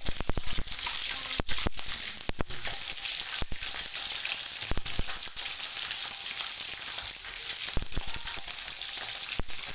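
Fish frying in hot oil in a pan: a steady sizzle with sharp crackling pops, coming thickly for the first couple of seconds and then more sparsely.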